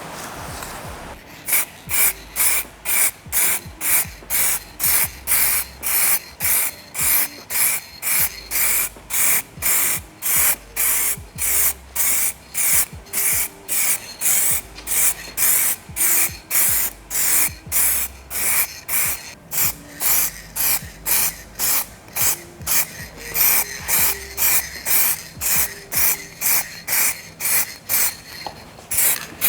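Aerosol clear-coat spray can hissing in quick, even bursts, about two a second, with a faint whistle running through the hiss.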